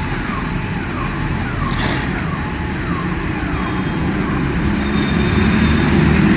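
Steady street and traffic noise, with a short falling electronic tone repeating about twice a second that fades out about four seconds in.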